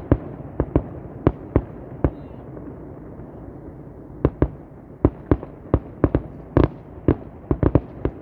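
Fireworks going off: an irregular string of sharp bangs and cracks, with a short lull about two seconds in, then a denser run of bangs from about four seconds in.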